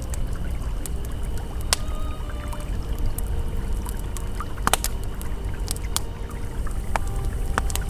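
Campfire crackling with scattered sharp pops over the steady rush of a flowing river, with faint held tones underneath.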